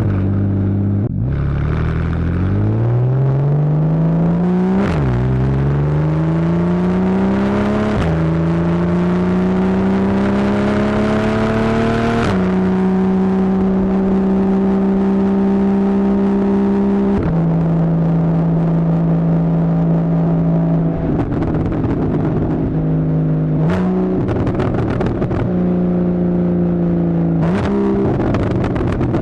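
Porsche 981 Boxster's 2.7-litre flat-six with a Fabspeed Maxflo exhaust pulling hard, rising in pitch through quick PDK upshifts at about 5, 8 and 12 seconds, then holding a steady cruise. Later it turns rough and crackly as the throttle comes off, with two short rev blips on downshifts near the end.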